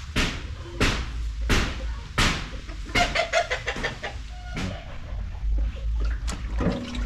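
Chickens clucking, with a quick run of clucks about three seconds in. Several loud, rough swishing or scraping strokes about 0.7 s apart come first, over a low rumble like wind on the microphone.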